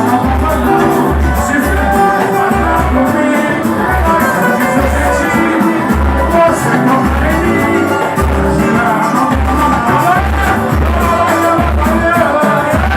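Live samba band playing, with a voice singing over a steady, deep drum beat.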